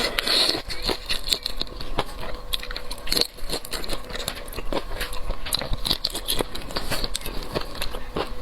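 Close-miked eating of seafood: wet chewing and biting with many irregular clicks and crackles.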